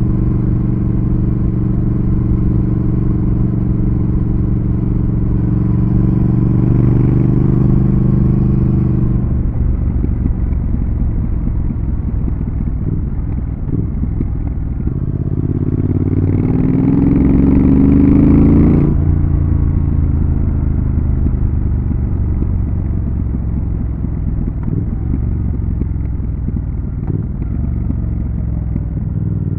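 Triumph Thruxton RS's 1200 cc parallel-twin engine on the move: a steady cruise, then the throttle eases off about a third of the way in. It picks up again in a rising rev through one gear that cuts off sharply near two-thirds of the way in, then settles back to a lower steady note.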